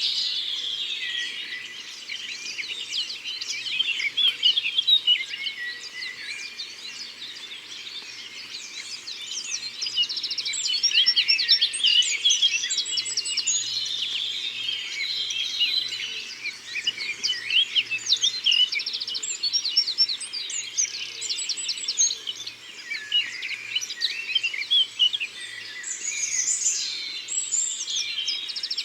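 Several songbirds singing and chirping at once in a dawn-chorus-like tangle of quick trills and whistles, swelling louder around a third of the way in and again near the end.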